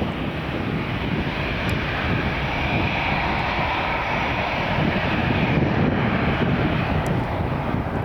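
Jet airliner engines running: a steady, dense rush of engine noise that grows a little louder through the middle and then holds.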